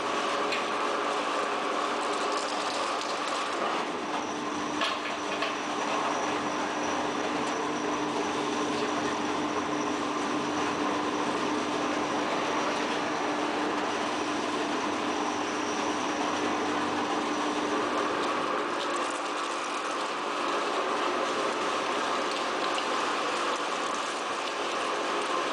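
Waste tire recycling line machinery running steadily: a continuous mechanical din with a held hum and a high whine that sets in about four seconds in and fades near eighteen seconds. A couple of short knocks come about five seconds in.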